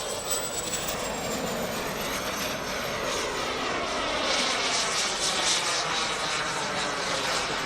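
Kingtech model jet turbine of a 1:5 scale RC F-16 jet running in flight: a steady jet roar with a high whine that falls slightly in pitch as the jet passes. The roar grows loudest a little past the middle.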